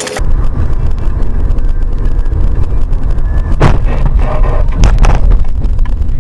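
Loud, steady low rumble of a car's engine and road noise picked up by a dashcam, with a few short knocks about halfway through.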